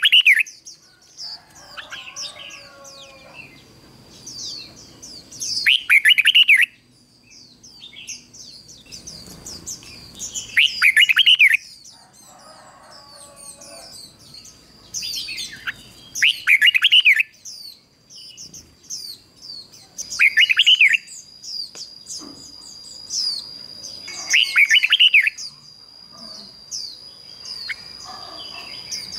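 Red-whiskered bulbul singing: short loud song phrases repeating about every five seconds, with a steady high whine and quieter high twittering behind them.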